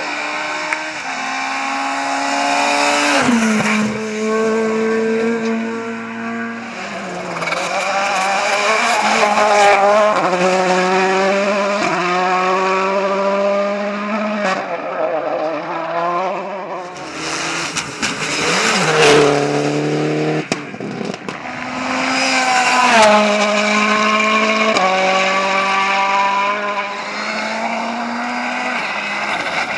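Rally cars' engines at full throttle, the pitch climbing and then dropping in steps at each gearshift, with brief lifts and downshifts between runs.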